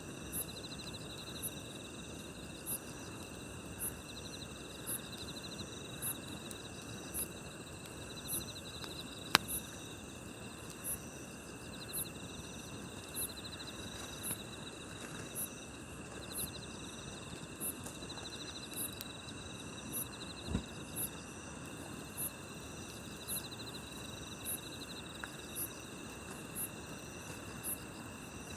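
Night grass insects chirping steadily in chorus: one high chirp about once a second, a pulsing trill every couple of seconds and a continuous high ringing. A campfire hisses faintly underneath, with one sharp pop about nine seconds in.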